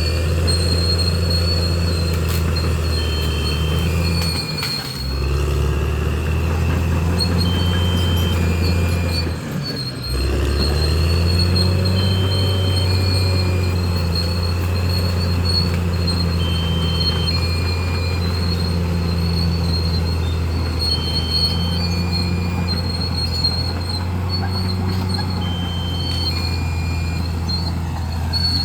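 Bulldozer's diesel engine working under load. It dips sharply twice, about five and ten seconds in, and climbs back up in pitch each time.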